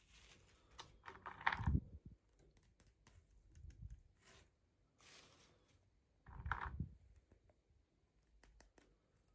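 Hands unboxing and handling toy packaging: scattered small clicks and rustles, with two louder bouts of rustling and thumps, about a second and a half in and again about six and a half seconds in.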